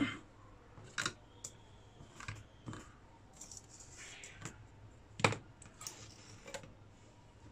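Scattered light clicks and knocks of small parts and tools being handled on a workbench, the loudest about five seconds in.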